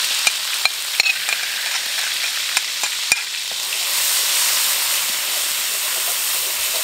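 Ground chili spice paste sizzling in hot oil in a wok as it is sautéed and stirred with a metal spatula: a steady sizzle, with several sharp clinks of utensils against the wok in the first three seconds or so.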